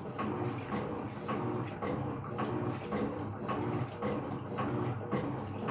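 Electrolux LF75 top-loading washing machine agitating a load: its motor hums in short repeating strokes while water sloshes in the tub.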